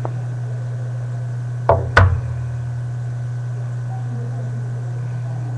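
Two quick knocks about a third of a second apart, roughly two seconds in, over a steady low hum.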